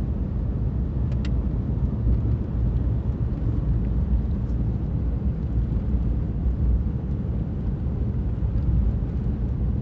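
Steady low rumble of a car's engine and tyres heard from inside the cabin while driving slowly on a snowy road, with a couple of light clicks about a second in.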